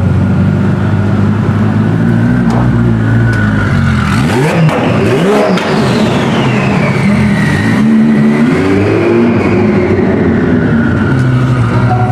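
Supercar engines running under a steady low rumble, with revs rising and falling about a third of the way in as a car accelerates away. A high whine falls in pitch over the next couple of seconds, and there is another short burst of revving after that.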